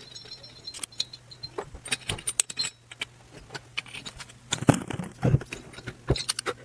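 Metal clinking and rattling in a run of irregular short clicks as a spark plug is fitted and tightened with a wrench on a rebuilt two-stroke bike engine, with a few louder knocks a little past the middle.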